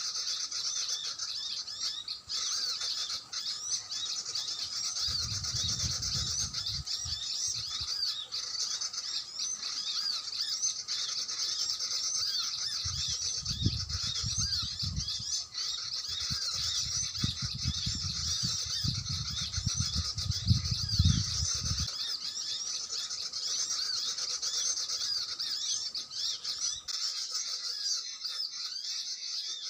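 Continuous dense, high-pitched chirping and twittering of sunbirds from a bird-call recording played on an MP3 player as a lure. Low rumbles come and go under it twice, the longer one near the middle.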